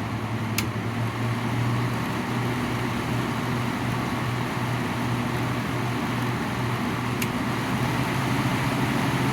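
1996 Whirlpool 6,000 BTU window air conditioner running on fan only, compressor off: a steady motor hum with the rush of air, with two faint clicks, one just after the start and one near the end. The fan motor is quiet, and most of the noise comes from the condenser side.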